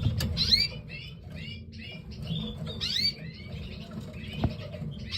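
Newly hatched canary chicks cheeping: short, high, squeaky calls in quick clusters, over a low rumble, with a single sharp click about four and a half seconds in.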